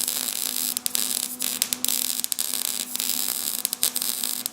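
Welding on a car exhaust pipe: a steady crackling hiss with irregular pops and a steady low hum underneath.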